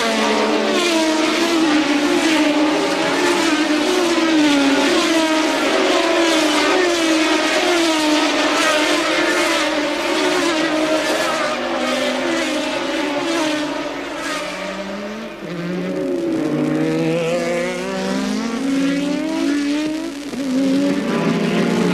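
1983 Formula One cars' engines at racing speed, with pitch climbing and dropping again and again about once a second as they run up through the revs and shift. After about fifteen seconds the note drops lower and climbs back up in steps.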